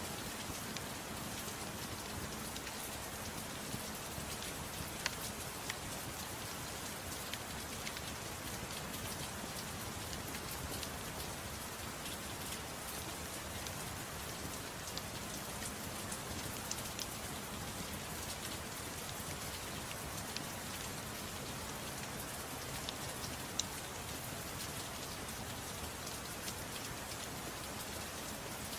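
Gentle rain falling steadily, an even hiss with a few scattered sharp ticks.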